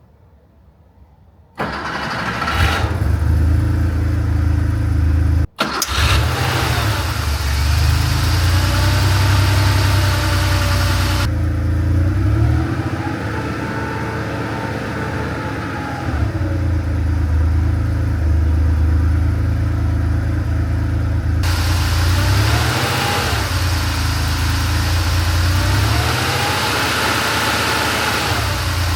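A 1987 Porsche 911 Carrera's air-cooled 3.2-liter flat-six starts from cold, catching suddenly about a second and a half in, then runs at a steady idle. The sound breaks off briefly about five and a half seconds in, and the engine's pitch rises and falls slowly a few times later on.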